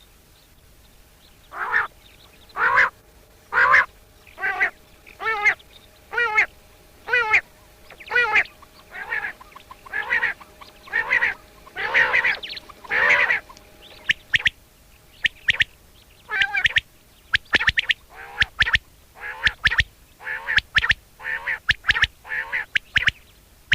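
Common quail calling: a long series of short, nasal calls, about one a second, starting about a second and a half in.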